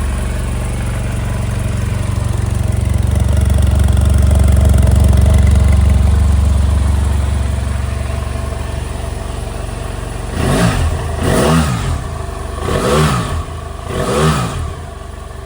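2013 BMW F800GT's parallel-twin engine idling on a cold start, then revved in four short throttle blips near the end, each rising and falling in pitch.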